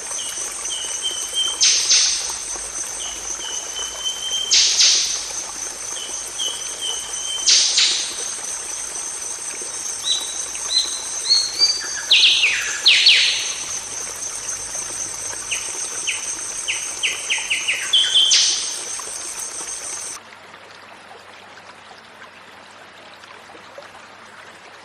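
Golden oriole calling: sharp, harsh notes about every three seconds with short whistled notes between them, and a run of quick stepped notes near the middle, over a steady high insect buzz. About 20 seconds in, the recording cuts to a quieter, even hiss.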